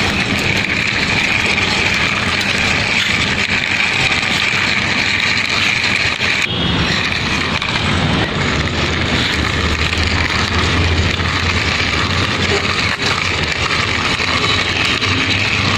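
Steady, loud motor-vehicle engine noise that drops out briefly and restarts about six and a half seconds in, with a low hum growing stronger a little later.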